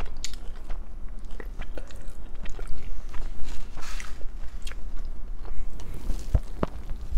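Close-miked eating sounds: burgers and fries being bitten and chewed, with many small mouth clicks and crunches. A brief rustle comes about four seconds in, and there are two low thumps a little after six seconds.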